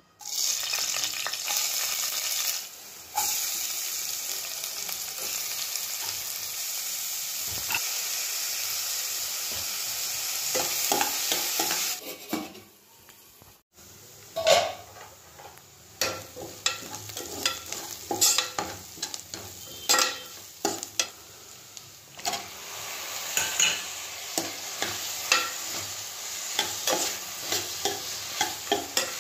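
Hot oil sizzling in a steady hiss as green chilli pieces are dropped into the pan, for about twelve seconds. After a short lull, chopped onions and then tomatoes fry more quietly while a spatula scrapes and taps the pan in frequent, uneven strokes.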